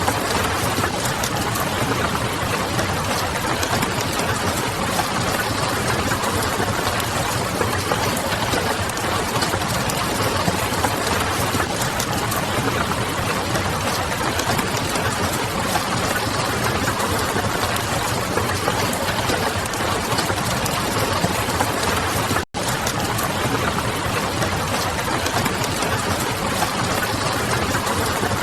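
Steady ambience of wood-fire crackle and rain pattering on a window over a low, distant city hum. It cuts out for a split second about two-thirds of the way through.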